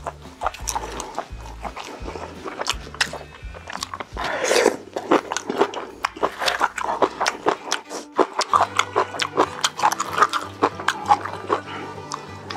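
Close-miked eating: a person chewing and slurping, giving many quick clicks and smacks, with a longer, noisier mouth sound about four and a half seconds in.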